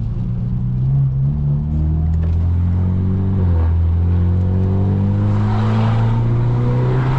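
Straight-piped BMW F30 328i's turbocharged four-cylinder accelerating, its exhaust note rising steadily in pitch with brief dips at gear changes about one and a half and three and a half seconds in. A hiss builds alongside it in the second half.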